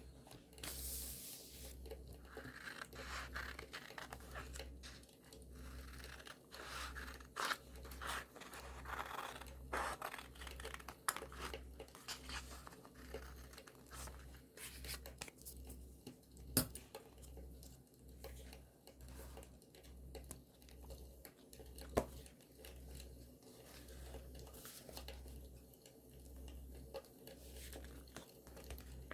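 Paper being torn and crinkled by hand during scrapbooking, with small scratchy rustles throughout. A few sharp crackling pops from a campfire sound run underneath.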